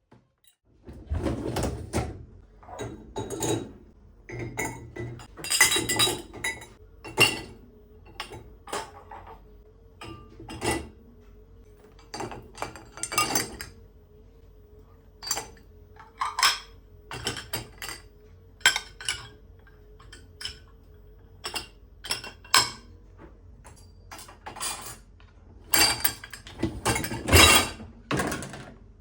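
Household items, dishes and utensils by the sound of it, clinking and knocking as they are handled, in irregular clatters with short gaps between them. A faint steady hum runs through the middle stretch.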